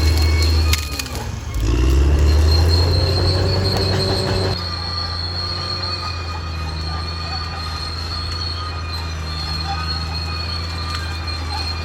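Caterpillar D6R XL bulldozer working, its diesel engine running with high-pitched metallic squealing from the steel tracks. The engine drops briefly about a second in, then revs back up, and eases slightly about halfway through.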